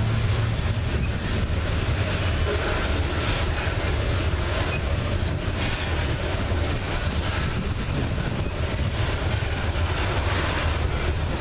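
Diesel freight locomotives running, a steady low engine drone over a continuous rumbling noise; the drone drops slightly in pitch at the start.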